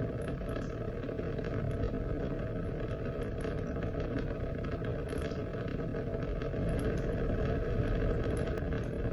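Steady rain: a dense, even hiss that is heaviest in the low end, with scattered sharper drop sounds.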